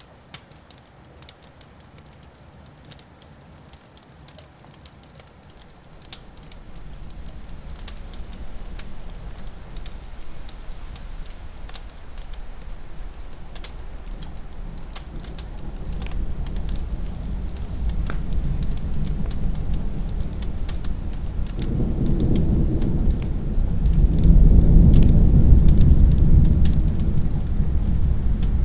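Long rolling thunder that builds slowly from a low rumble and peaks near the end, under the faint crackle of a wood fire.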